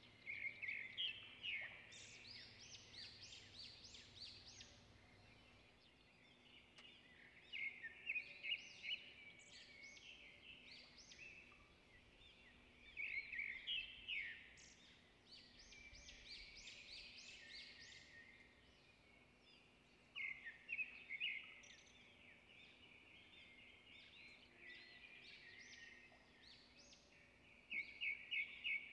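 Faint bird song: short bursts of rapid, high chirping notes, one burst about every six or seven seconds, over a low steady hum.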